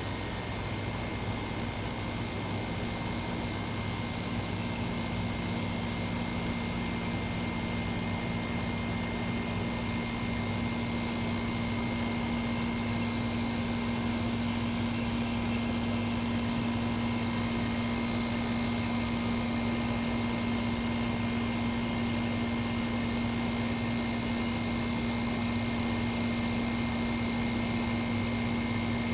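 Window air conditioner running, its rotary compressor and fan giving a steady hum with a few thin steady whining tones above it. The compressor is still working toward getting the coil cold.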